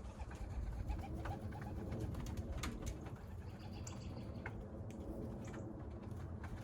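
Young racing pigeons cooing around the loft, with a few short high-pitched notes and scattered light taps over a low background rumble.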